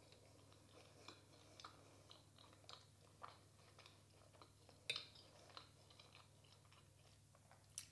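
Faint close-up chewing and mouth smacks from eating a soft snack, with scattered small clicks. A sharper click comes about five seconds in.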